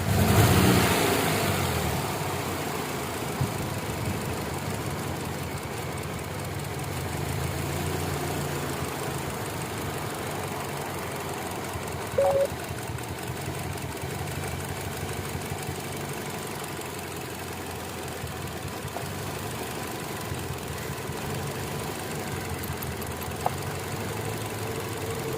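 Kia Optima engine idling unevenly with a misfire from a failed ignition coil. It is louder for the first couple of seconds, then settles. A short beep sounds about halfway through.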